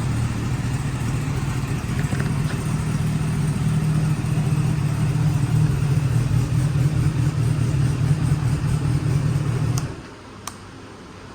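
Honda CB400SF VTEC Spec3's four-cylinder engine idling steadily through a short aftermarket muffler, then stopping suddenly near the end, followed by a single click.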